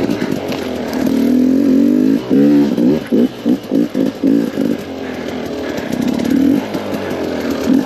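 KTM 250 XC-W two-stroke enduro engine revving, broken by a quick run of short throttle blips a couple of seconds in, then running steadier at lower revs.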